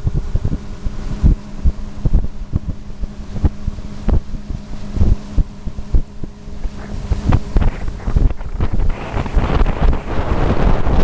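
A boat's motor running steadily under heavy wind buffeting on the microphone. A rushing hiss grows stronger in the second half.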